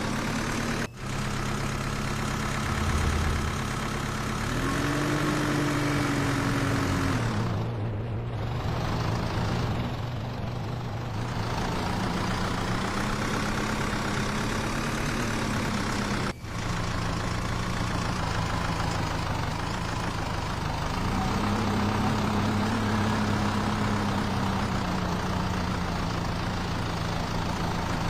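Tractor engine running near idle, its speed rising and falling a few times as the throttle is opened and eased back. The sound cuts out for an instant twice.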